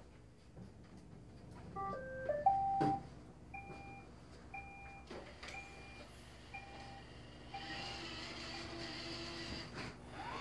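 Roomba 620 robot vacuum's electronic tones: a quick run of short stepping notes about two seconds in, then five evenly spaced beeps about once a second. Near the end a steady motor hum starts up.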